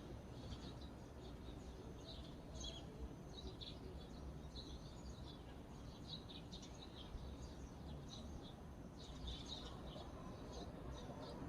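Small birds chirping and twittering in quick, scattered high calls throughout, over a faint low steady background rumble.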